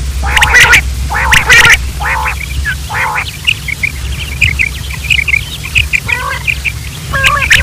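Quail calling: four loud, raspy calls about a second apart, then a rapid run of short high chirps, and two more calls near the end.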